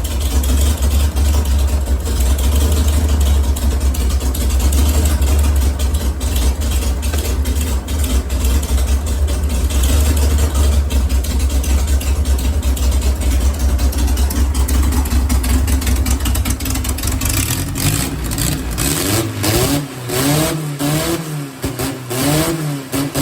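Air-cooled VW Beetle flat-four engine running with a heavy, steady low rumble. In the last few seconds its note rises and falls over and over as it is revved.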